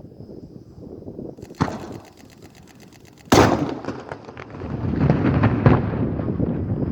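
Daytime fireworks battery (batteria diurna) going off. There is a sharp bang about a second and a half in, followed by a rapid run of crackles. A much louder blast comes just past three seconds, then a dense rolling string of bangs and crackling that dies down near the end.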